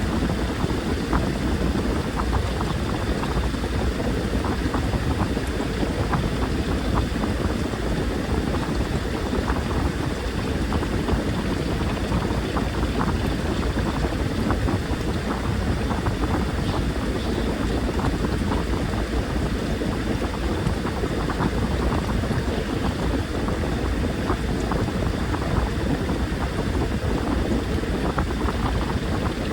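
Washing machine running a wash cycle, heard from inside the drum: water sloshing and splashing as the laundry tumbles, over a steady low motor rumble.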